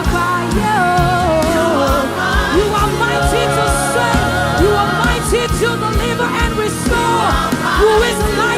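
Live gospel worship music: sung vocals gliding over a band with a steady beat.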